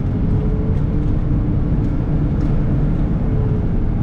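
Steady road and engine noise inside a moving car's cabin, a low rumble with a faint steady hum.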